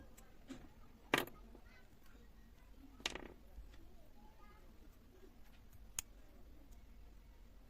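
Three short clicks from small hard objects being handled, about a second, three seconds and six seconds in.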